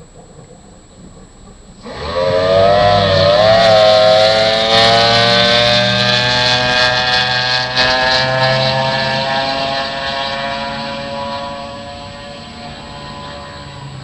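Mercury outboard on a drag boat starting a run. It comes in suddenly and loudly about two seconds in, its pitch wavers briefly, then climbs steadily as the boat accelerates, and it slowly fades toward the end as the boat pulls away.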